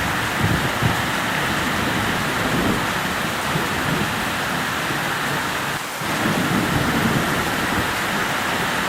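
Heavy thunderstorm rain pouring steadily, with low thunder rumbling in the first few seconds and again after a brief dip about six seconds in.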